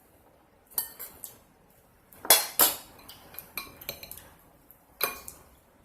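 Metal cutlery clinking and scraping against a plate during a meal: a series of sharp, ringing clinks, the loudest two close together about halfway through.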